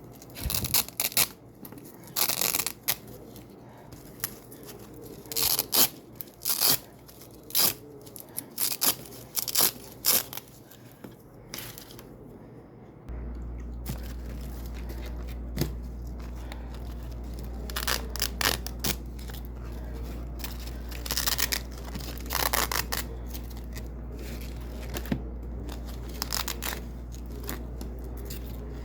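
Double-sided velcro repeatedly ripped off white hook strips: a string of crisp, crunchy tearing rips, some short and some drawn out, with pauses between them. A steady low hum comes in about halfway through.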